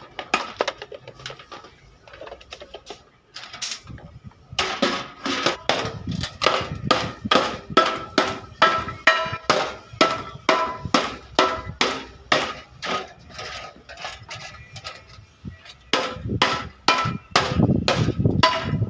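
Hammer blows on a Tata Ace pickup's sheet-metal body panel during dent repair. The strikes come steadily at about three a second, and each one rings briefly. The first few seconds hold lighter, sparser taps, and the blows get heavier and duller near the end.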